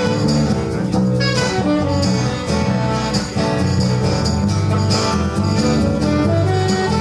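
Live band playing an instrumental passage with guitars, bass and drums and a steady beat, no vocals.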